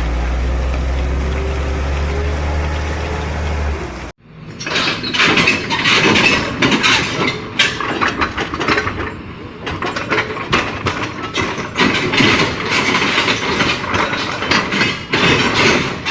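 A heavy vehicle engine runs with a steady low rumble, then cuts off suddenly about four seconds in. Loud, uneven noise follows for the rest of the time.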